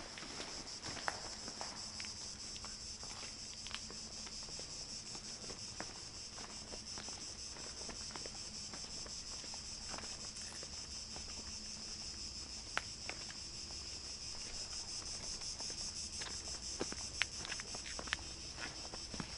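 A steady, high-pitched, finely pulsing insect chorus, with scattered sharp clicks of footsteps over it.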